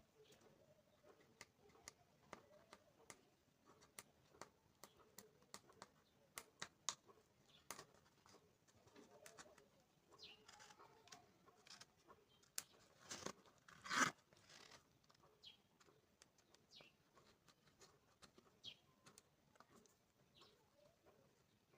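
Near silence with faint scattered clicks and small handling sounds from hands working on a speaker, and one louder short scrape about 14 seconds in. Birds chirp faintly in the background now and then.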